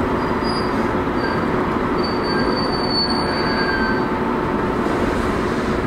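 Seibu 2000 series electric commuter train running, heard from inside the car: a steady rumble of wheels on rail. A faint high squeal of the wheels comes in about two seconds in and lasts a couple of seconds.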